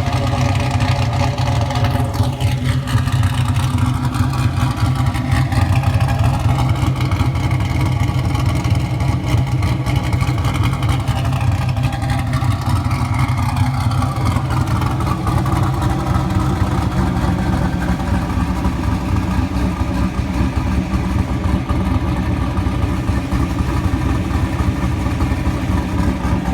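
2002 Trans Am's LS1 V8, fitted with an aftermarket cam, running steadily at idle through long-tube stainless headers and a Corsa cat-back exhaust, with a deep exhaust note.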